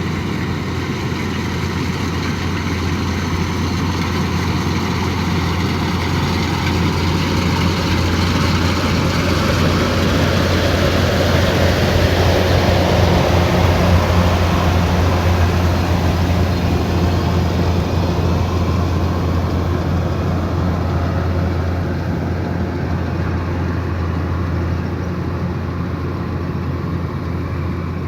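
Kubota DC108X combine harvester running with a steady, deep engine drone under a broad mechanical noise. The sound grows louder toward the middle and eases off again.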